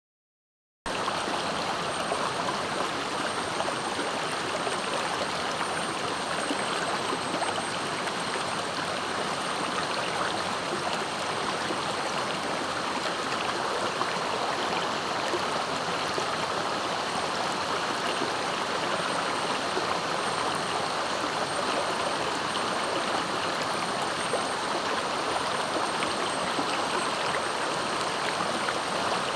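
Swift, clear river rushing and flowing steadily, starting about a second in.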